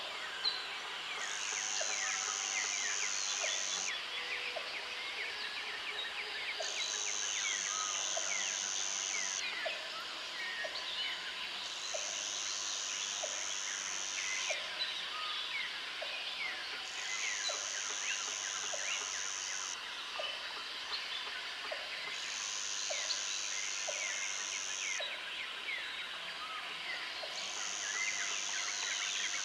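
Jungle ambience of insects and birds: a high insect buzz switches on and off in spells of about three seconds, over a dense chorus of chirps and trills, with a short low call repeating about once a second.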